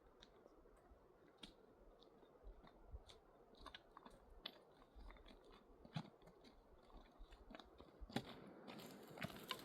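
Quiet chewing with small crunches and scattered soft clicks: a person eating, most likely the grilled fish.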